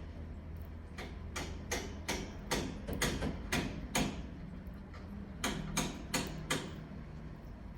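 Canary pecking at its food, a series of sharp taps about two to three a second: a run of about nine, a short pause, then four more.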